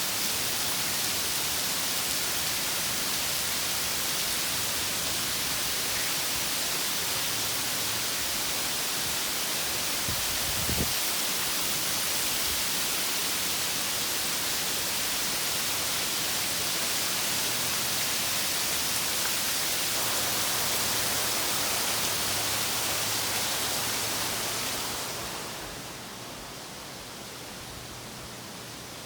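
Heavy rain pouring steadily, an even hiss of rainfall. There is a brief low thump about eleven seconds in, and the rain grows quieter about 25 seconds in.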